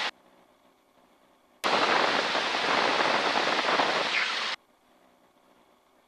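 Aircraft intercom keying open for about three seconds with no words, letting in a burst of cockpit engine and wind noise that starts with a click and cuts off abruptly, with near silence on either side.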